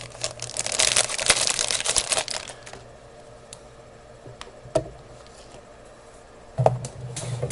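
Crinkling and rustling of desoldering braid being handled, for about two and a half seconds, then a few light clicks. Near the end a click and a low hum come in.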